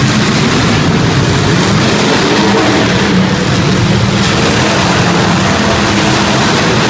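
Engines of demolition derby cars running loud and steady, several blending into one dense engine din with no clear single crash.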